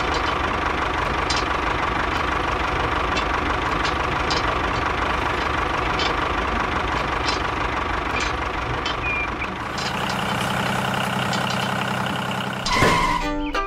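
A vehicle engine running steadily at idle, with scattered faint clicks. The engine sound changes to a lower, steadier hum about ten seconds in, and a brief louder sound comes just before the end.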